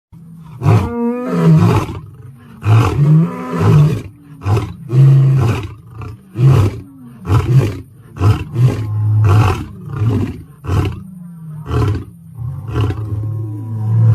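A large animal roaring over and over: two long roars at first, then a series of shorter roars about one a second.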